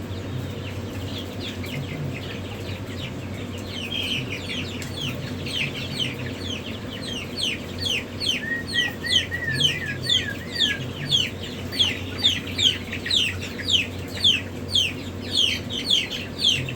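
Chicks peeping: many short, high, falling peeps, which grow louder and more regular, about two to three a second, over the second half. A brief warbling trill comes about halfway, over a steady low hum.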